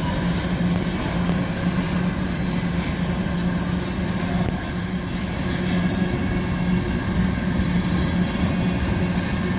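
Freight train boxcars rolling past: a steady rumble of steel wheels on the rails with a constant low hum underneath.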